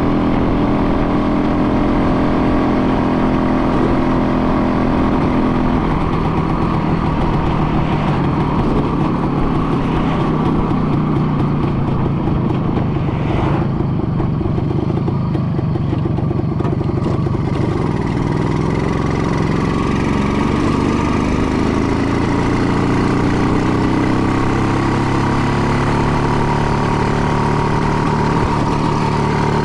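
An engine running continuously, its pitch steady at first, then shifting and slowly climbing in the second half.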